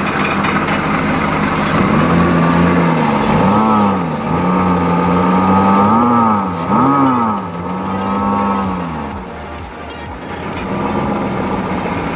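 BMW M50B20 2.0-litre straight-six engine running on its first start with a belt-driven Toyota SC14 supercharger, which is not yet piped to the intake and is blowing air out its side. The revs rise and fall about four times, then settle back to a steady run.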